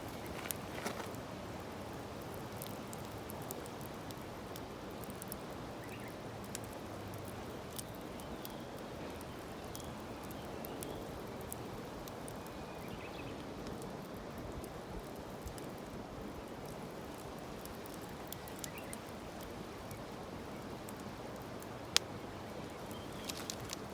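Firewood burning in a bonfire: a steady hiss with scattered small crackles and pops, and one sharper pop near the end.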